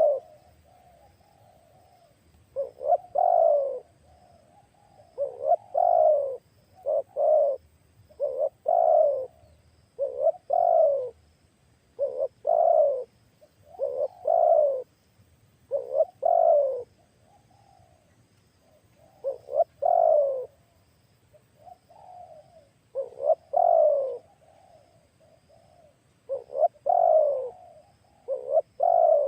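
Spotted dove cooing: a repeated short phrase of two or three falling coos, about one phrase every two seconds.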